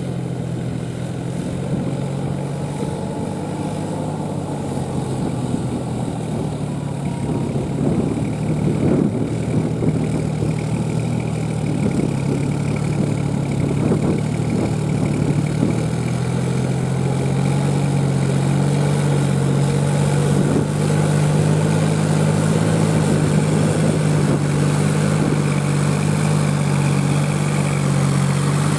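New Holland 4710 tractor's diesel engine running steadily, growing gradually louder.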